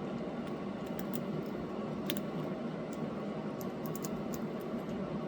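Budgie pecking and cracking food pellets with its beak: a scatter of small, sharp, irregular clicks over a steady low room hum.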